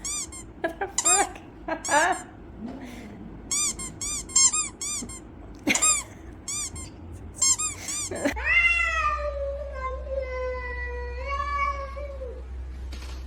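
A cat making a rapid series of short, high-pitched mews, then, about eight seconds in, one long drawn-out meow that rises and then slowly falls over about four seconds.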